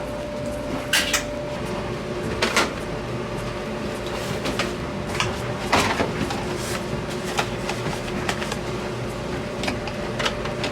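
A steady mechanical hum with two constant tones, with irregular knocks and clicks of household handling over it, the loudest about a second, two and a half seconds and six seconds in.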